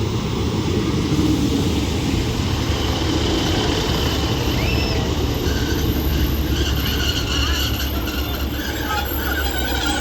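Northern diesel multiple units running at a station platform, a steady low rumble as the Class 195 pulls away beside a standing Class 150 and 156 pair.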